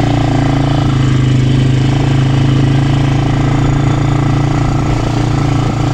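Quad bike engine running at a steady pitch while riding.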